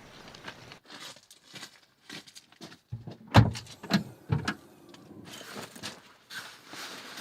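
Objects being handled: a string of clicks and knocks, with several heavy thumps in the middle, the first and loudest about three and a half seconds in.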